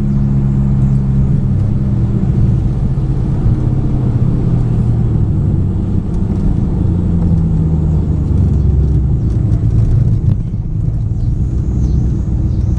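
2008 Ford Mustang GT's 4.6-litre three-valve V8 running with a steady low rumble. It is misfiring on five bad ignition coils.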